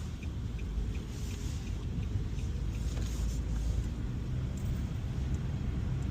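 Steady low rumble of a car's engine and tyres heard from inside the moving car, with a faint rapid ticking in the first second.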